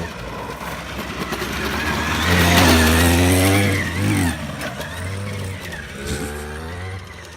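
Small motorbike engine riding up past close by: it grows louder, is loudest between about two and four seconds in, then drops back as the bike moves off.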